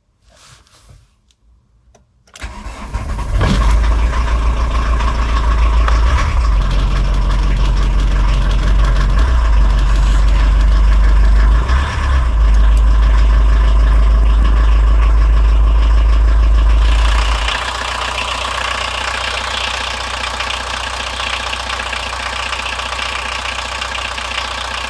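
Volkswagen Jetta Mk2 1.6 TD four-cylinder turbodiesel cold-started after three months standing: it starts about two seconds in, catches and runs loud with a deep rumble. About seventeen seconds in the rumble drops away and it carries on running more quietly, with a lighter diesel clatter.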